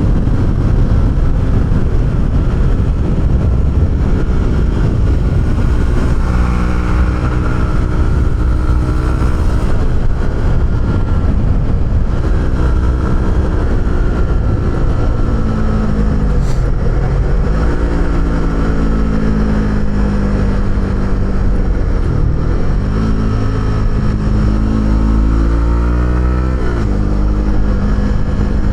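Honda CB125R's single-cylinder 125 cc four-stroke engine running through an Arrow aftermarket exhaust while the bike is ridden. The engine note rises and falls with throttle and gear changes, dropping and then climbing again about sixteen seconds in, and again near the end.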